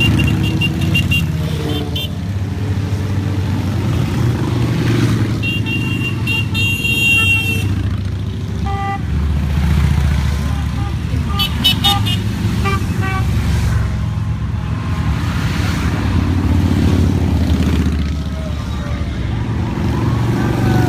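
A steady stream of motorcycles riding past, engines running in a continuous low rumble that swells and eases as groups go by. Horns toot in short runs several times: right at the start, around five to seven seconds in, and around eleven to thirteen seconds in.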